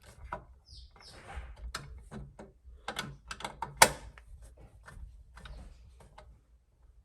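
Screwdriver driving a small screw into a kitchen electrical outlet's box by hand: irregular clicks and scraping ticks as the screw tightens, the sharpest click about four seconds in.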